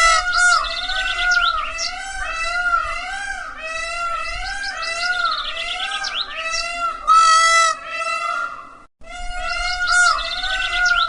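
Bird chirping and warbling in a continuous run of pitched calls with quick upward chirps. It breaks off for a moment near the end, then starts again.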